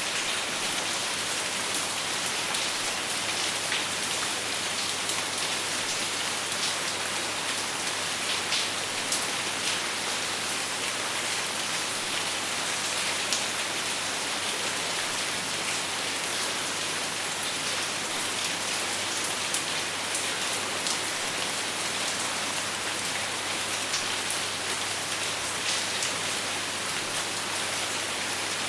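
Steady rain falling, a dense even hiss with scattered individual drop patters, and no thunder.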